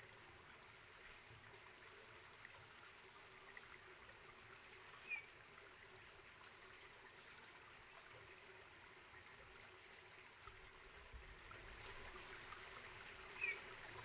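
Two short, bright bird chirps about eight seconds apart, with faint high-pitched calls in between, over a quiet steady hiss.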